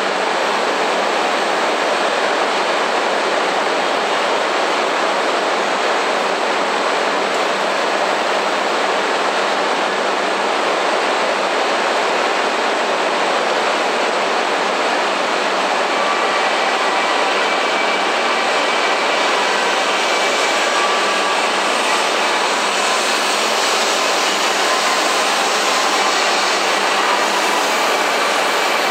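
E5 series Shinkansen train at a station platform giving a steady, even hiss, with faint high steady tones joining about halfway through.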